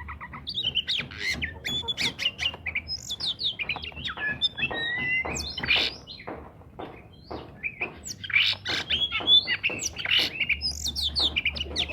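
Oriental magpie-robin in full, continuous song: a fast run of varied sliding whistles, chirps and harsh notes, easing briefly a little past the middle before picking up again.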